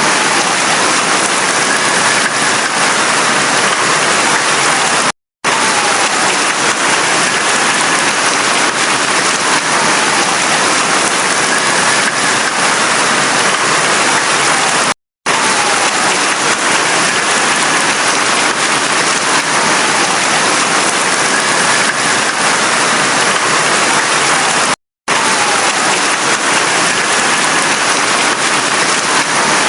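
Steady heavy rain falling. The sound cuts out to silence for a split second three times, about every ten seconds.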